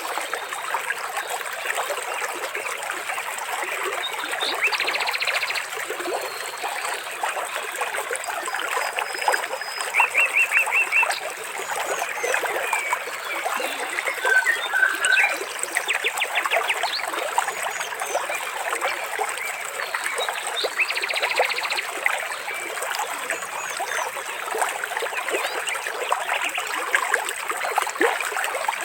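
Water trickling and splashing steadily, with birds calling over it: a few short, rapid trills and chirps, one trill heard again near the end.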